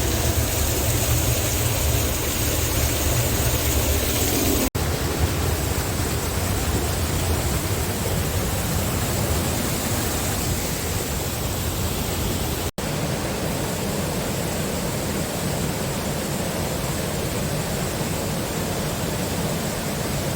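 Waterfall's steady rush of falling water, a dense even noise with its weight in the lows. It comes in three stretches, broken by two abrupt gaps about five and thirteen seconds in.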